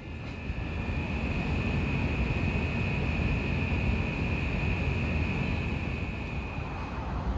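Steady low rumble of a moving vehicle, with one steady high-pitched whine over it.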